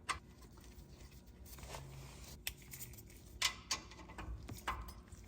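Scattered sharp clicks and light metal taps, about six in all, the loudest a little past halfway, from rear brake caliper parts being handled and fitted back over new pads.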